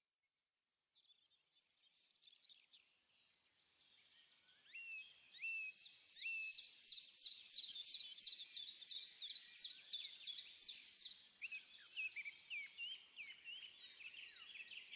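Near silence for the first few seconds, then birds chirping: a quick run of short, high chirps, about three a second, that grows louder and then thins out toward the end.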